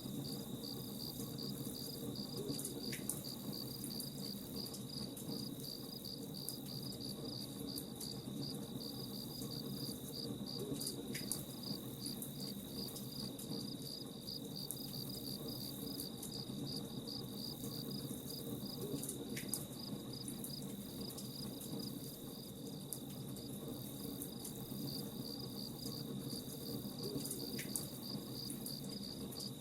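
Crickets chirping in a steady, even pulse, with sparse sharp crackles from a campfire over a low steady hiss.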